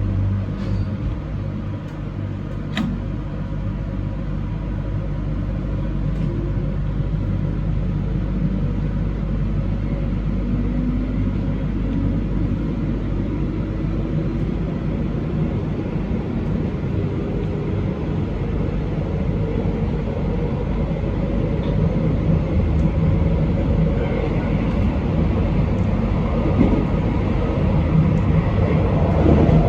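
Passenger train running along the line, heard from on board: a steady rumble of wheels and drive with a pitched drive tone that slowly rises as the train picks up speed.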